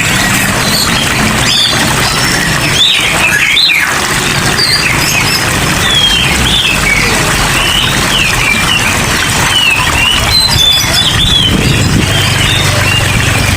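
Steady heavy rain with many small birds chirping and squawking over it, in short rising and falling calls.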